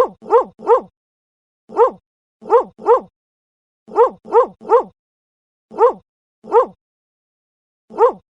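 Dog barking in short bursts of one to three sharp barks, about a dozen in all, with complete silence between the groups.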